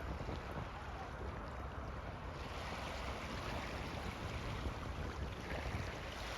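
Steady rush of wind and water while windsurfing on the sea, with wind buffeting the microphone.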